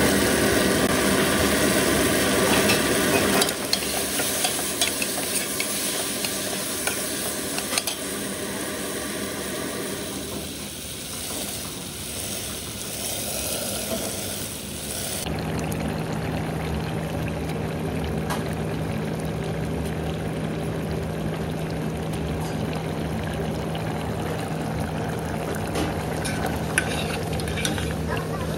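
Chicken pieces in curry masala sizzling in a steel pot, with a ladle stirring and knocking against the pot now and then. The sound changes abruptly about three seconds in and again about halfway through, and from halfway on a steady low hum runs under the sizzle.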